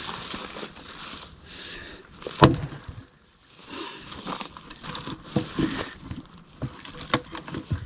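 A Fiskars splitting axe strikes a black cherry round, hard once about two and a half seconds in and again more lightly near the end, with crackling and rustling between the strikes.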